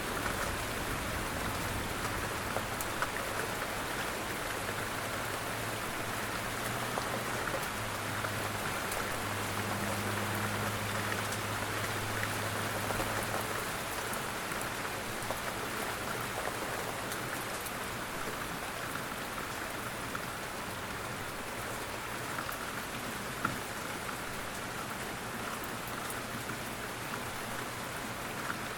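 Steady rain falling, an even hiss with scattered drop ticks. A faint low drone sits under it through the first half.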